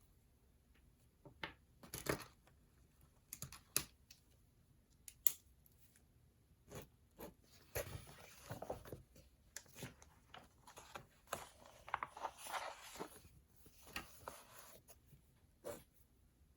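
Faint paper rustling and handling, with scattered light clicks and taps, and a longer stretch of rustling about halfway through.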